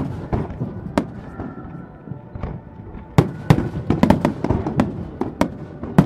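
Aerial fireworks shells bursting in an irregular string of sharp bangs and crackles, thickest a little past halfway, over a low rolling rumble of echoes from earlier bursts.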